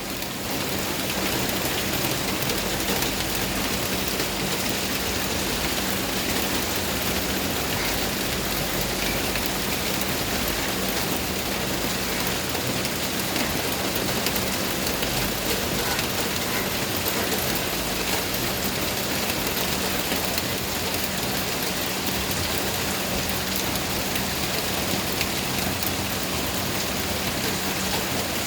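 Steady rain falling, an even hiss of drops that holds the same level throughout. A faint low hum sits underneath.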